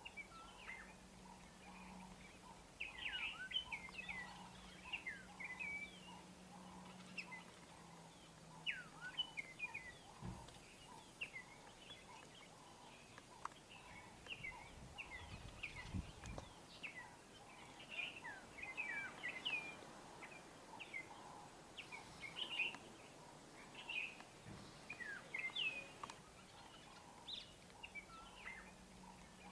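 Small birds chirping repeatedly in short, quick calls. A faint steady low hum runs under the first third, and there are a couple of brief low thumps near the middle.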